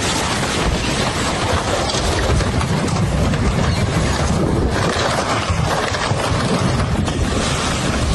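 Floodwater rushing in a steady, loud, unbroken noise, with wind buffeting the microphone.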